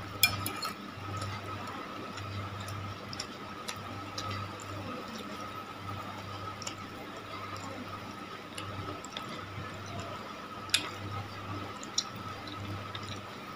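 Wet chewing and mouth sounds of someone eating chewy tapioca-and-egg cilor and macaroni, with a few sharp clicks of a metal spoon against a plate, over a steady low hum.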